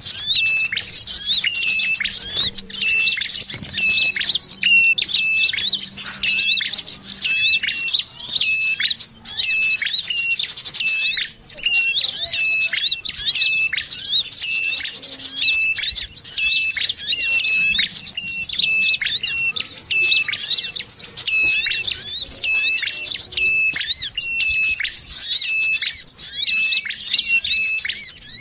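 Bird-lure recording mixing the chattering of a little spiderhunter (sogok ontong) with calls of an ashy tailorbird and a brown-throated sunbird. A dense, high twittering runs throughout, with a short call note repeated about once a second.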